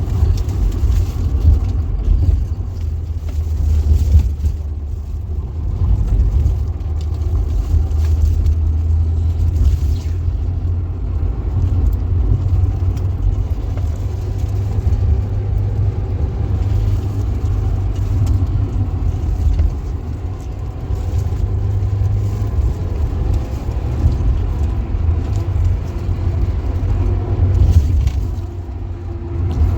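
Steady low rumble of a car being driven, heard without a break.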